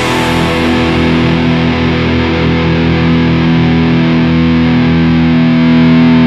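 Distorted electric guitar holding one chord, left ringing steadily.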